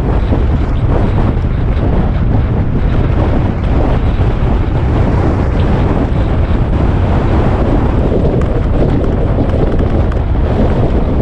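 Wind buffeting the microphone on a moving motorcycle: a loud, steady rush that covers the bike's own running noise.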